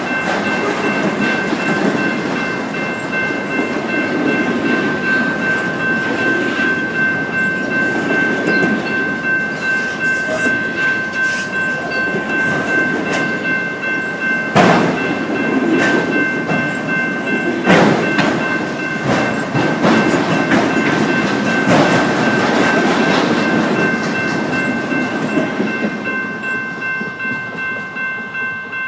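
Train cars rolling past, with the wheels rumbling on the rails and a steady high-pitched ringing held throughout. There are sharp knocks about a quarter and again two-thirds of the way in, and regular clacking over rail joints near the end.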